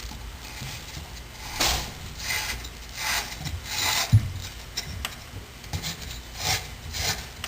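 Irregular rubbing and scraping strokes, one or two a second, as the water supply shut-off valve below a sink is turned back on by hand.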